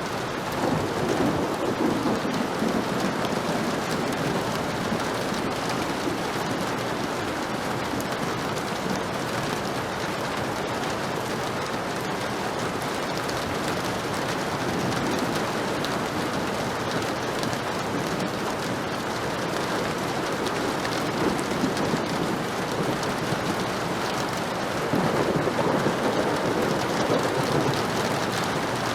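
Heavy rain falling steadily, with rolling thunder rumbling twice, once just after the start and again near the end.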